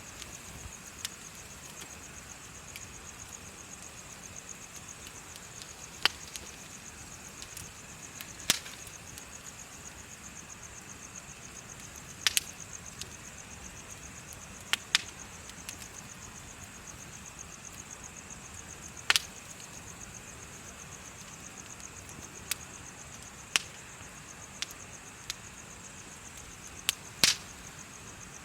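Bonfire crackling with sharp, scattered pops every second or few, over continuous high-pitched, rapidly pulsing insect chirping.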